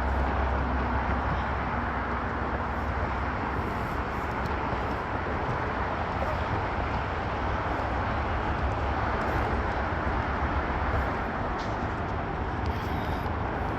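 Steady rumble and hiss of distant road traffic, with no single vehicle standing out.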